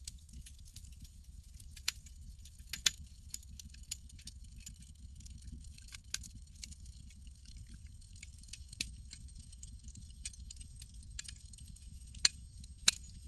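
Campfire crackling: irregular sharp pops and snaps over a low steady rumble, with two louder pops near the end.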